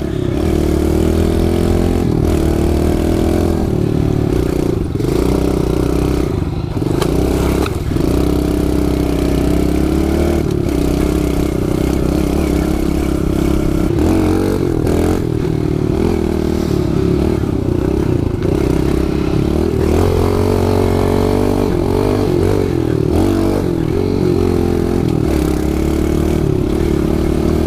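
Kawasaki KLX110 pit bike's small single-cylinder four-stroke engine running continuously under the rider, its pitch rising and falling as the throttle is worked on a dirt trail, with occasional knocks and rattles from the bike.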